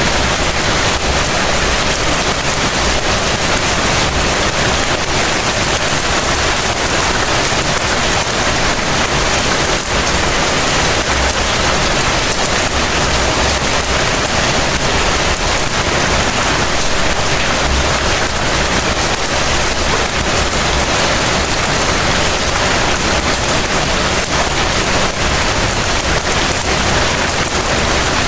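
Heavy rain falling steadily, a dense even hiss with a low rumble underneath and no separate events.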